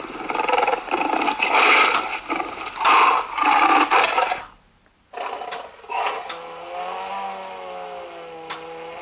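Animatronic lion plush's built-in sound effects played through its small speaker: a rough recorded lion roar for about four and a half seconds, then after a short pause a long, low, drawn-out call that sounds more like a cow mooing than a lion. A few sharp clicks are heard.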